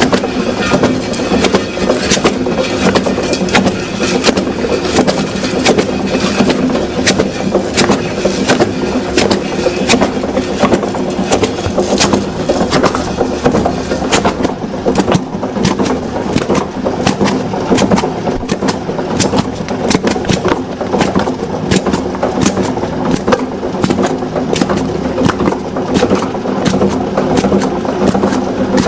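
A machine running steadily with a constant hum and many irregular sharp clicks and knocks.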